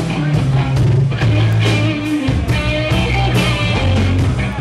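Live rock band playing an instrumental passage: electric guitar over bass with a steady drum beat.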